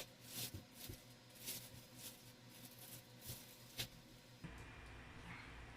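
Faint rustling and crinkling of product packaging being handled during unpacking, in about half a dozen short scrapes. About four seconds in, a steady low hum takes over the background.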